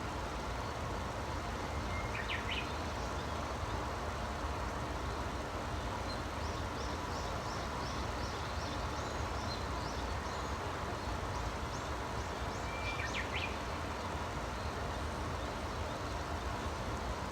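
Wild birds calling: a short chirped call about two seconds in, a quick run of high twittering notes in the middle, and another chirped call near the end, over a steady low rumble.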